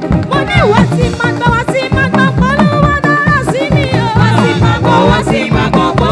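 Live Yoruba gospel praise band music: drums and percussion over a bass line, with a bending lead melody above them.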